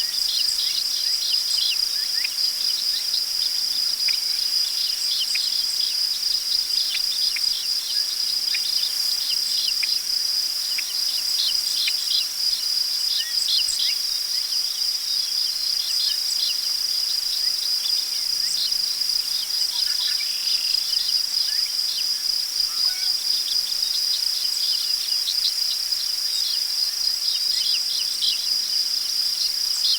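Crickets trilling in one continuous high, steady tone, with many short bird chirps scattered over it.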